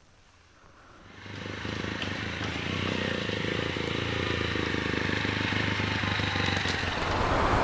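A motor vehicle pulling away about a second in: its engine hum and the wind and tyre noise on a dirt road build up quickly, then run on steadily, a little louder near the end.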